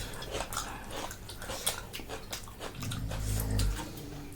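Close-up eating sounds: wet clicks and smacks of chewing and lips, with a short low hum about three seconds in.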